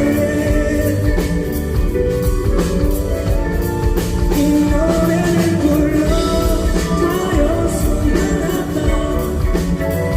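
Live pop-rock band music with drums, a steady beat and pitched instruments, and singing heard with it.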